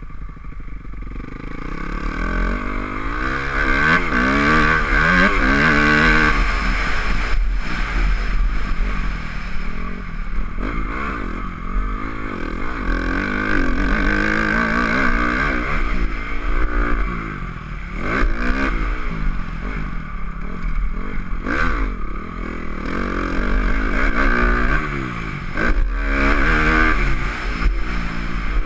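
Motocross bike engine revving up and down over and over as it is ridden hard, the pitch climbing and dropping every second or two, with clattering and rushing noise close to the GoPro.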